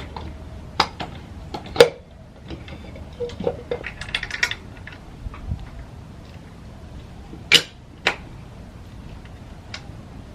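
Metal parts and tools clinking and knocking as a pit bike's rear wheel, chain and brake are refitted: a handful of sharp clicks with quieter taps between them. The loudest come about a second in and about three quarters of the way through.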